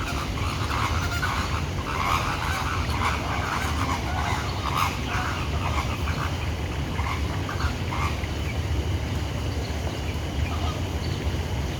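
Flock of flamingos calling, many short honking calls overlapping, thickest in the first two-thirds and thinning out after, over a steady low rumble.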